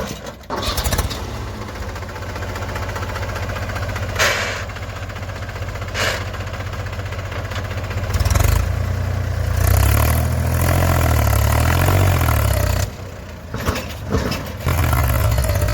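Heavy diesel engine running with a fast clatter, pulling louder with a wavering, revving note for several seconds past the middle, easing off briefly, then picking up again near the end. A couple of sharp knocks sound before the engine pulls harder.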